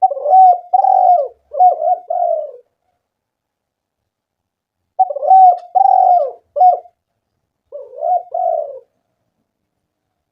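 Spotted dove cooing: a run of about four coo notes right at the start, then after a pause a second run of several coos beginning about five seconds in.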